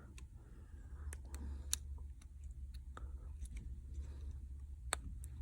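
A few sharp, isolated clicks and taps from small phone parts and tools being handled, over a low steady hum.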